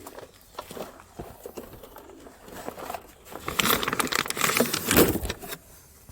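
Clattering and rustling of a coil of stripped scrap cable being handled and loaded into a van, with light scattered knocks at first and a loud spell of jostling about halfway through that lasts a couple of seconds.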